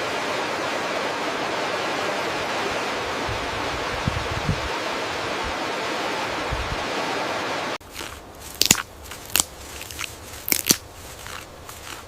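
A steady rushing hiss, like rain or running water, cuts off suddenly about eight seconds in. Scattered sharp crunches and crackles follow, like something moving through dry leaf litter.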